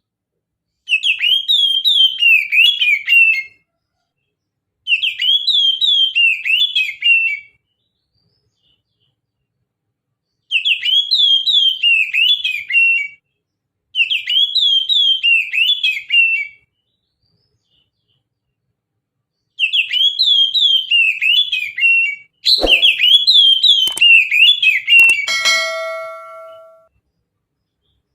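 Oriental magpie-robin singing: six phrases of quick, bending whistled notes with rapid chatter, each about two and a half seconds long, separated by short pauses. Near the end two sharp clicks cut in, and the last phrase closes on a held steady tone.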